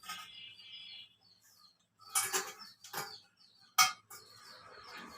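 A few sharp clinks and knocks, three of them about two, three and nearly four seconds in, with faint bird chirps in the background.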